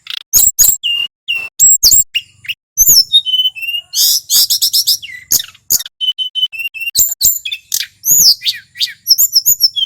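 Male tledekan gunung (Sunda blue robin) singing in full song: a rapid, varied run of sharp whistled notes, many sliding down, some held level, with a fast stuttering burst about four seconds in.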